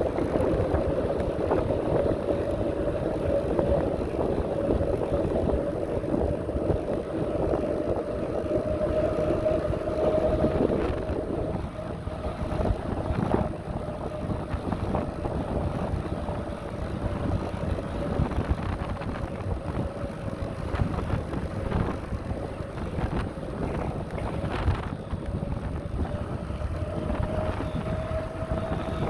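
Riding noise of a bicycle on a path: a steady low rumble with wind buffeting the microphone, and a continuous whine that drifts slowly up and down in pitch. There are a few light knocks, the clearest about two-thirds of the way through.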